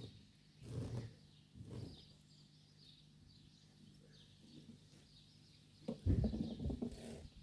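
Faint birdsong, with a few low thumps or bumps breaking in, the loudest spell about six seconds in.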